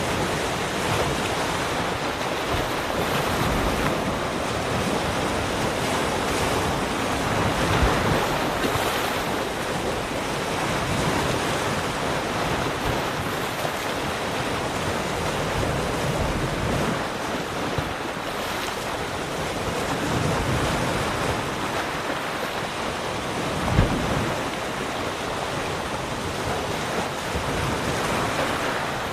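Ocean waves washing onto a shore in a continuous hiss that swells and eases, with wind buffeting the microphone in two brief low thumps, about eight seconds in and near the end.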